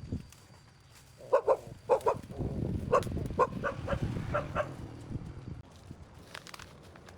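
Short animal calls repeated about ten times over three seconds, some in quick pairs, over a low rumble.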